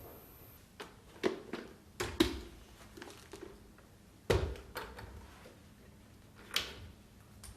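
A series of irregular sharp clicks and knocks, about seven in all, with the loudest around two and four seconds in.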